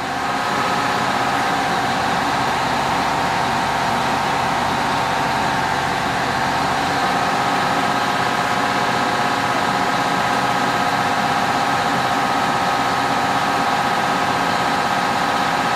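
Fire engine running steadily at the fireground, a steady whine of several tones riding over its engine rumble.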